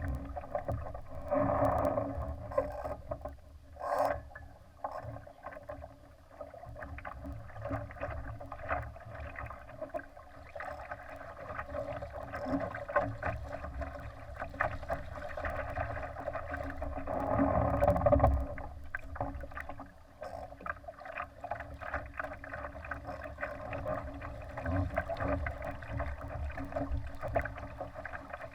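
Water rushing against the hull of a Laser sailing dinghy under way. There is a sharp knock about four seconds in and a louder rush about two-thirds of the way through.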